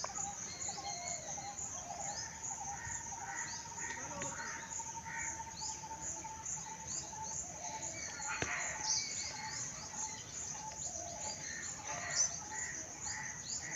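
Several birds chirping and calling over a steady, pulsing high-pitched insect buzz, with one sharp click about eight and a half seconds in.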